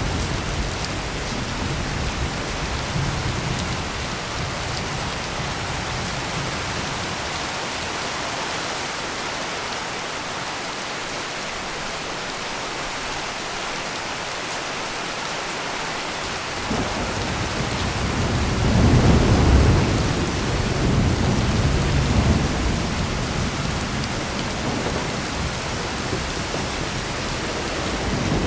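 Steady heavy rain with rolling thunder. A low rumble dies away in the first few seconds, then a new peal of thunder rolls in about two-thirds through, loudest a few seconds later, and fades out under the rain.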